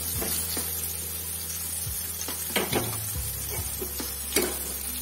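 Button mushrooms sizzling in hot oil in a kadhai, with a few sharp knocks from a spatula stirring them in the pan.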